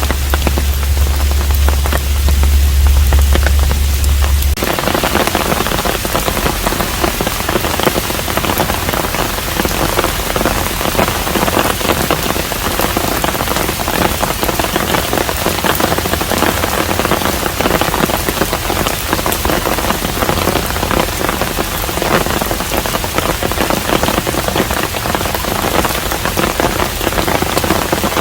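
Steady rain falling on a traditional Korean hanok, a dense even hiss with many separate drops heard within it. A steady low hum underneath stops abruptly about four and a half seconds in.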